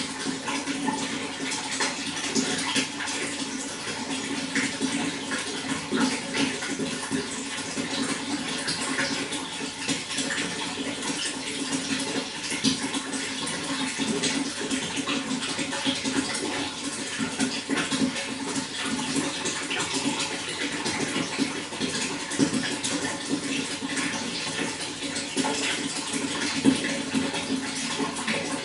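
Water running and splashing steadily, a dense even rush with many small spatters.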